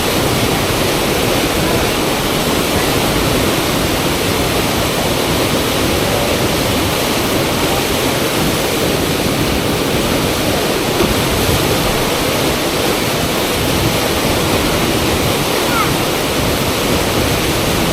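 Loud, steady rush of fast river water pouring through a standing surf wave.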